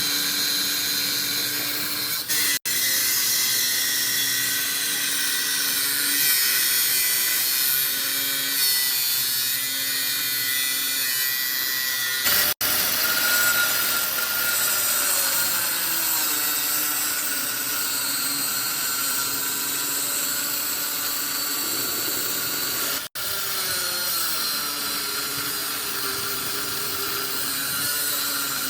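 Power tool running continuously on metal: a high-pitched grinding or drilling noise whose tone shifts as it works. It breaks off abruptly three times as the footage jumps.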